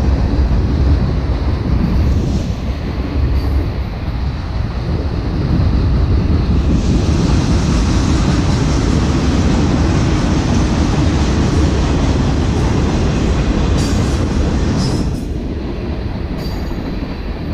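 A train rolling past at close range: a loud, continuous rumble and clatter of wheels on the rails, with a few sharp metallic clanks near the end.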